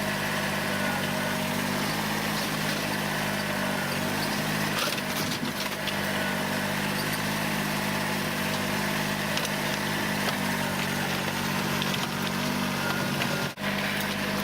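Kubota diesel tractor engine running steadily, with a few sharp cracks and crunches of plastic and metal about five seconds in as the old computer is crushed. The sound drops out for a moment near the end.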